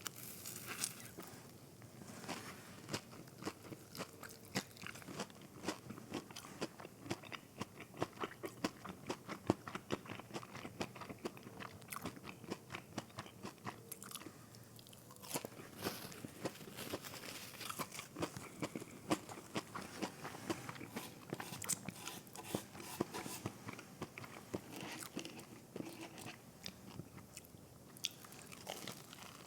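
Close-miked chewing of fried mozzarella sticks: irregular crisp crunches and soft wet clicks of the breaded crust and cheese being chewed, many small crunches a second throughout.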